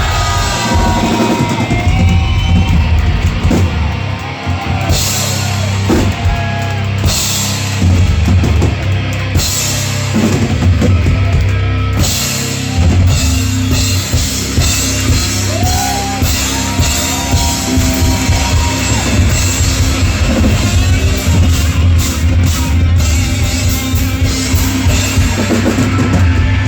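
Live rock band playing loudly, with a pounding drum kit at the front.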